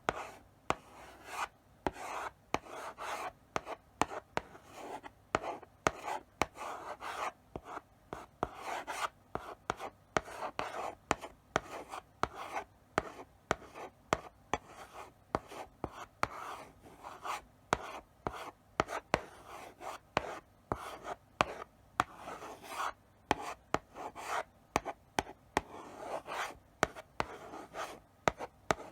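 Chalk writing slowly on a blackboard: short scratching strokes one after another, with frequent sharp taps as the chalk meets the board.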